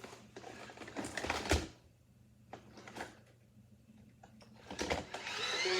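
Plastic knocks and rustles of a Roomba i6 robot vacuum being handled, the loudest about a second and a half in. Near the end the Roomba's own error alert begins.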